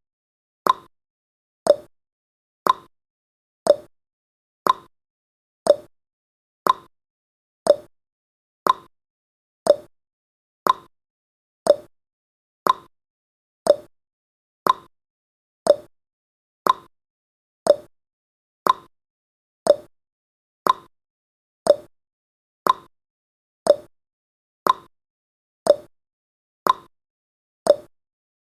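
Clock-style ticking from a countdown timer's sound effect, one sharp tick a second, alternating higher and lower like a tick-tock.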